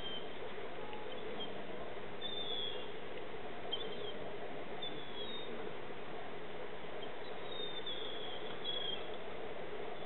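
Outdoor ambience: a steady background murmur with faint, short bird chirps scattered through it, several at a time around the middle and again near the end.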